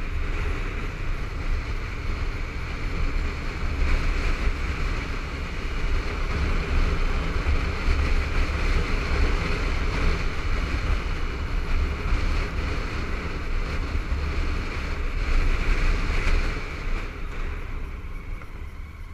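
Wind rushing and buffeting over a helmet-mounted camera on a moving Honda ST1300 motorcycle, with engine and road noise underneath. It eases off over the last couple of seconds.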